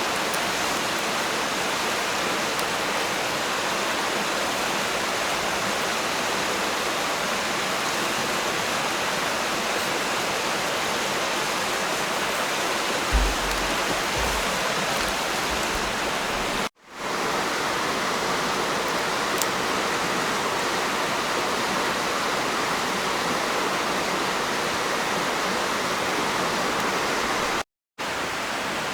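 Steady rushing noise like flowing water, with a low thump about 13 seconds in. The sound cuts out briefly twice.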